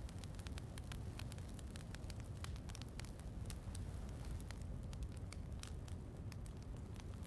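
Wood fire in a fireplace crackling, with many small sharp pops at irregular intervals over a steady low rumble.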